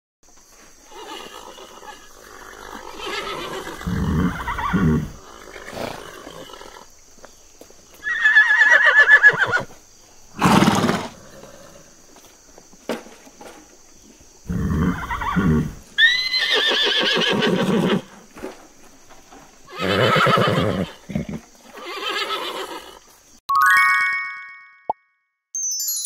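A horse neighing and whinnying about seven times, each call a separate burst, some with a rising start. A short chime-like jingle sounds near the end.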